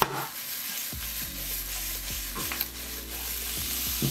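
Sliced okra sizzling in a hot skillet, with a sharp knock right at the start.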